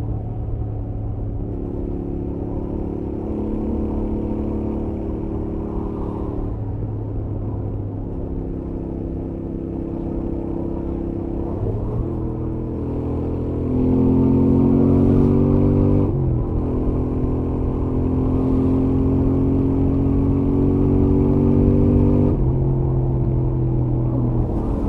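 Royal Enfield Interceptor 650's stock-exhaust 648 cc parallel-twin engine under way at highway speed. Its note climbs in pitch and grows louder about halfway through, drops sharply in pitch soon after, then climbs again until another drop near the end.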